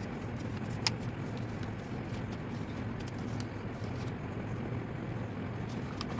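A sheet of paper being handled and folded, with small crinkles and one sharp crisp snap about a second in, over a steady low hum.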